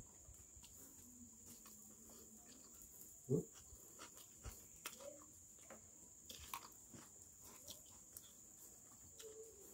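Faint eating sounds: soft chewing and small mouth and finger clicks from eating fish and rice by hand, with one brief louder low sound about three seconds in.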